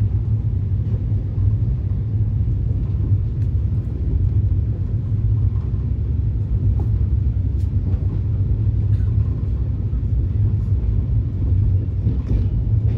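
Inside a Shatabdi Express chair car: the steady low rumble of the train running along the track as it accelerates, with a few faint clicks.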